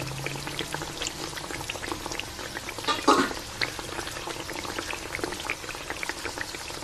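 Sauce simmering around a whole chicken in an aluminium wok: steady bubbling with many small pops. One louder sound about three seconds in, and a low hum that stops within the first second.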